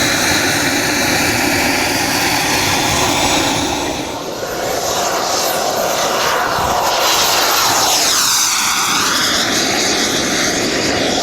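A radio-controlled model aircraft's engine running loud and steady in flight. It eases briefly about four seconds in, then the pitch sweeps down and back up around eight to nine seconds as the model passes close.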